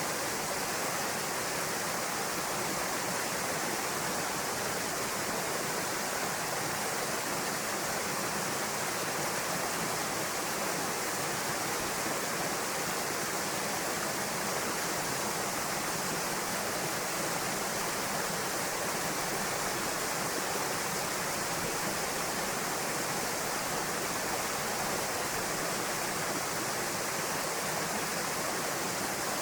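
Waterfall spilling into a rocky pool: a steady, even rush of falling water.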